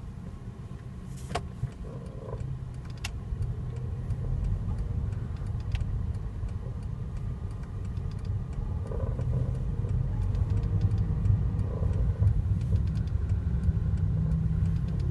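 Cabin noise of a moving 2008 Toyota Vios: a low road and drivetrain rumble that builds up, with a few sharp clicks and short mid-pitched knocks. The car has an unidentified noise that the owner links to the steering and hears only while the car is moving.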